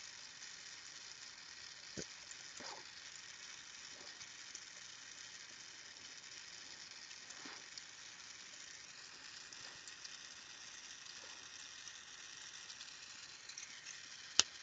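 Steady, faint hiss of a Carlisle glassworking torch flame, with a few light ticks of glass and tools. A single sharp click near the end is the loudest sound.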